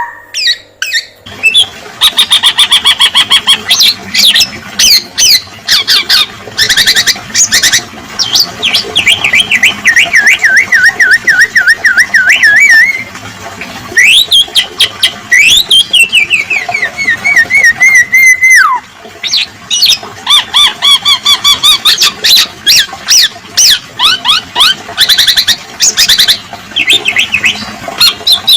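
Male black-naped oriole (kepodang emas) song with fill-in phrases: rapid chattering chips and trills, a long wavering warble that falls and then rises again, and sharp whistled glides up and down. It runs on loud and almost without pause.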